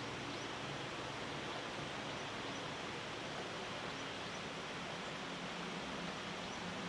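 Steady outdoor morning ambience: an even background hiss over a faint low hum, with a few very faint high chirps.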